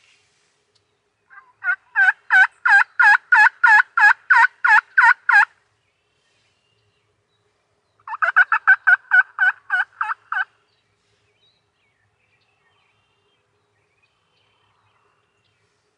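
Turkey yelping: a run of about a dozen evenly spaced yelps, each breaking from a higher to a lower pitch, then after a pause a quicker run of about ten more.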